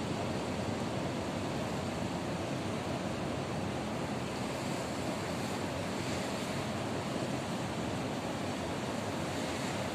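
Ocean surf washing steadily on the shore, a continuous rushing noise with no separate breaks standing out.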